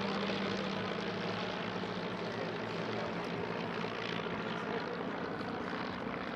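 Piston engines and propellers of Stampe biplanes flying their display, a steady drone that eases slightly toward the end.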